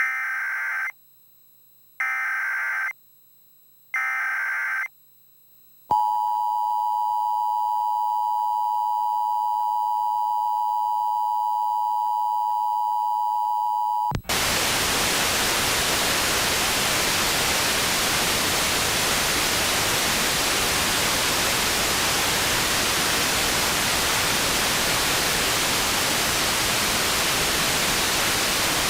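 Broadcast signal-loss sequence: three electronic beeps about two seconds apart, then a steady test tone for about eight seconds, then loud, steady static hiss of a dead feed.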